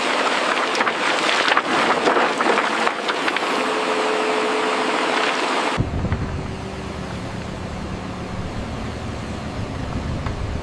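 Excavator at work: a dense mechanical clatter with many sharp knocks and rattles. Just over halfway it changes abruptly to a deep, steady rumble.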